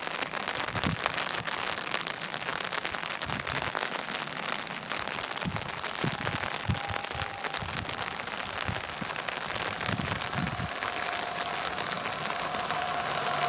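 Steady crackling hiss with a few low thumps. Near the end a whine rises and grows louder as the EN77 electric multiple unit approaches.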